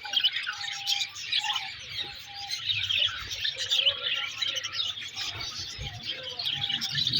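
Many small birds chirping at once in a dense, continuous chatter, with a few short, lower, held calls among them.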